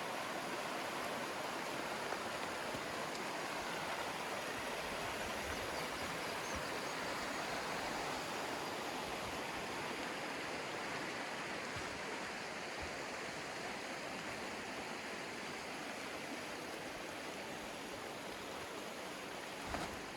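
Steady rush of a fast river over rocks, a constant hiss that eases slightly in the second half. A couple of faint knocks sound near the end.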